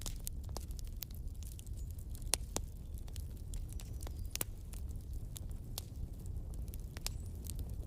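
Wood fire burning in a fireplace: logs crackling with irregular sharp pops over a low, steady rumble of the flames.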